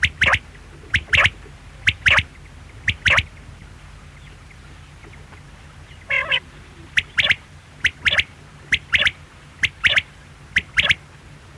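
Quail calling: a short note followed at once by a longer one, the pair repeated about once a second in two runs, with a brief warbled call between them about six seconds in.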